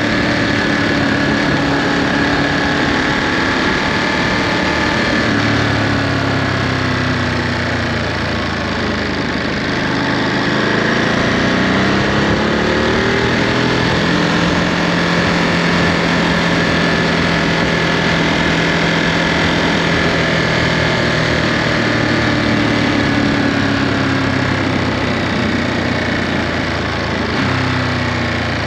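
Ducati Monster 937's Testastretta L-twin engine through its stock Euro5 exhaust while riding. The engine pitch falls as the bike slows, rises under acceleration about ten seconds in, holds steady for a stretch, then falls again with an abrupt step near the end.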